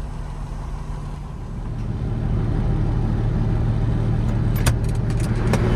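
Peterbilt 359 semi truck's diesel engine idling steadily, growing louder about two seconds in, with a few sharp clicks near the end.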